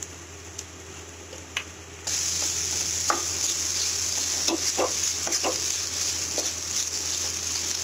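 Mashed boiled potatoes with onion and spices frying in oil in an iron kadhai: a steady sizzle starts about two seconds in while a wooden spatula stirs and scrapes the mixture, with scattered light knocks against the pan.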